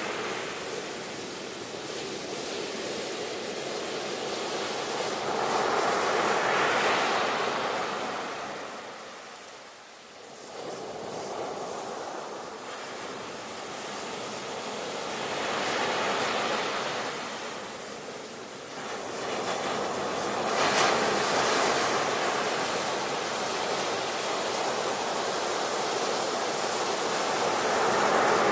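Ocean waves breaking and washing onto shore in slow surges that swell and fade every several seconds, with a brief lull about a third of the way through.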